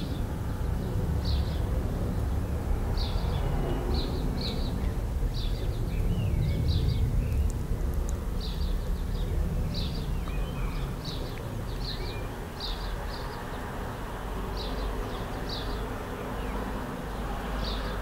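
Small birds chirping in short high notes, often in pairs, repeated every second or so, over a steady low rumble.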